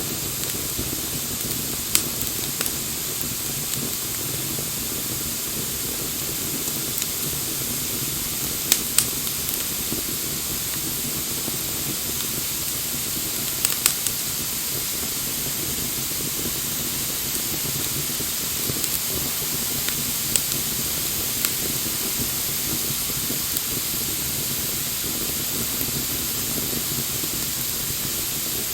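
Wood fire burning with a steady hiss, broken by occasional sharp pops and crackles of the burning wood, a few of them coming in close pairs.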